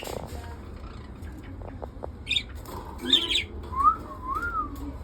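Cockatiel calling: a few short, harsh squawks, then a whistle of two rising-and-falling notes near the end.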